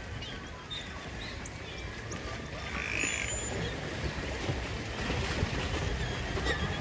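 Waterfront dock ambience: a steady low rumble that grows a little louder toward the end, with scattered short, high animal chirps over it.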